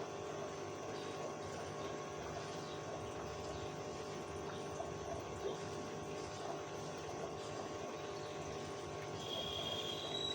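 Aquarium water pump or filter running with a steady hum, water moving through it.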